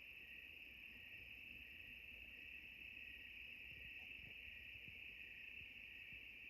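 Faint, steady chorus of crickets chirping.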